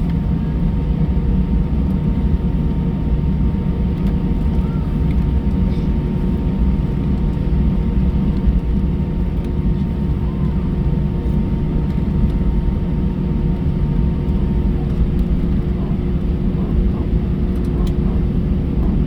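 Steady low rumble inside an Airbus A320 cabin with the engines at idle during taxi, under a constant hum. A faint steady whine cuts out about fifteen seconds in.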